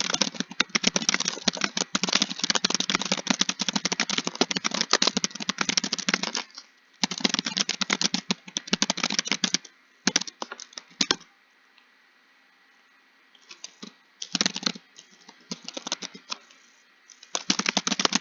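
Fast typing on a computer keyboard: rapid runs of key clicks broken by short pauses, with a near-silent gap of about two seconds past the middle before the typing picks up again.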